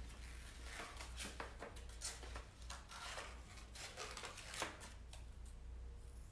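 Scissors snipping through folded paper in a series of short, irregular cuts, cutting out a small circle.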